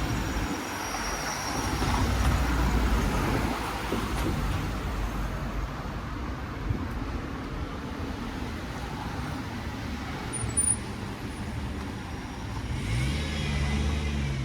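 Street traffic: cars passing with a continuous engine and tyre rumble. It swells about two seconds in, and another vehicle's engine hum rises near the end. There is a brief high chirp about ten seconds in.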